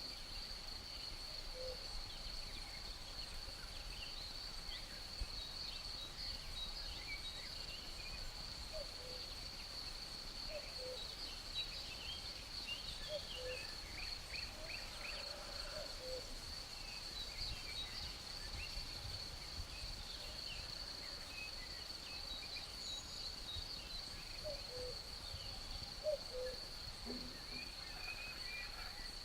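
Night-time nature ambience: a steady high-pitched insect trill, with scattered short bird chirps and short low hoot-like calls recurring every few seconds.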